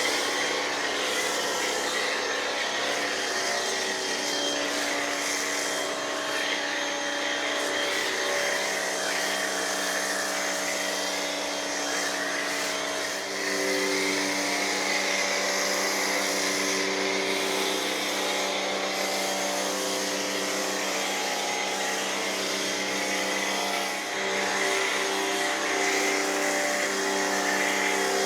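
Pressure washer running and spraying: a steady motor hum under the hiss of the water jet, the hum changing pitch with brief dips about 13 and 24 seconds in.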